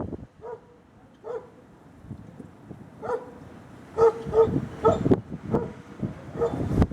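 A dog barking repeatedly in short calls, coming faster from about four seconds in, over gusts of wind rumbling on the microphone.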